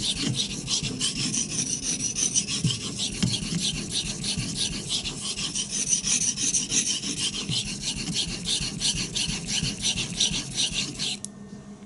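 Steel knife blade being stroked back and forth on a wetted whetstone, a rhythmic scraping of repeated sharpening passes that stops suddenly near the end. The strokes are raising a burr on the convex edge of a CPM-3V blade, and the burr has not come up yet.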